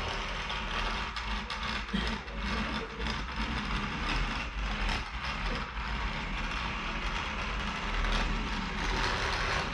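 Off-road vehicle engine running steadily, with a constant noisy rush over a low hum.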